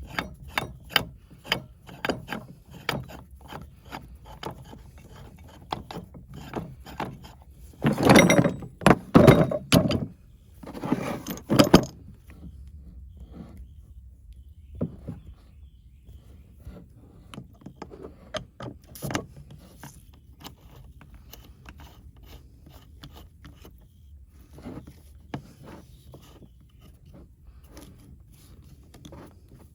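Irregular knocks and clatter of tools and hard parts being handled, loudest in a dense stretch of clattering about eight to twelve seconds in, then only scattered faint knocks.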